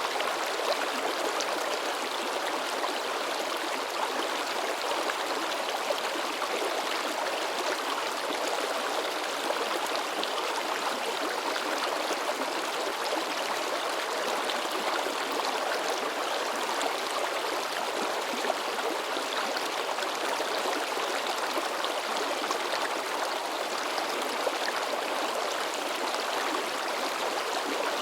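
River babbling and splashing steadily over rocks, a dense rushing water sound with small splashes throughout.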